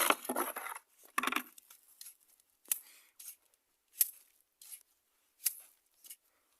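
Metal trowel scraping and flicking wet cement mortar onto a form: two longer scrapes at the start, then a run of short, sharp scrapes.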